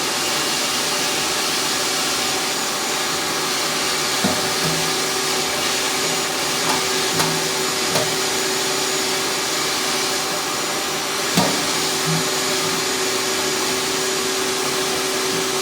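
Vacuum cleaner running steadily with a constant whine, sucking debris out of a gas water heater's burner area and intake screen. A few short knocks as the nozzle bumps around, the loudest about three-quarters of the way through.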